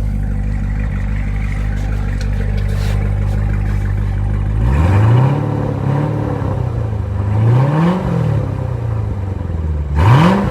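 2019 Corvette Z06's supercharged 6.2-litre LT4 V8 idling steadily after a cold start, then revved three times: a quick blip about halfway through, a slower rise and fall a few seconds later, and a short sharp blip near the end. The dual-mode exhaust's valves are closed.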